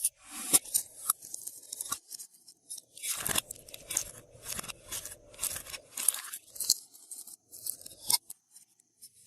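Glossy slime being mixed and pressed by hand, giving dense runs of sticky clicks and crackling pops in several bursts with short pauses between them.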